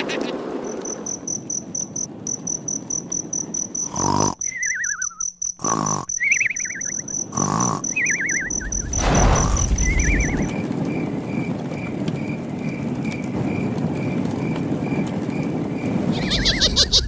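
Insects chirping in rapid even pulses, with three short falling bird-like chirps a few seconds in, over a steady rushing background.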